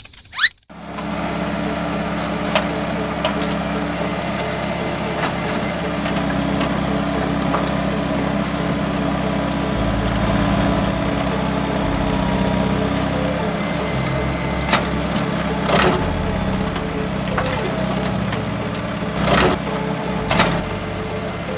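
A small engine or motor starts up suddenly and runs steadily with a low hum, broken by a few sharp clicks and knocks.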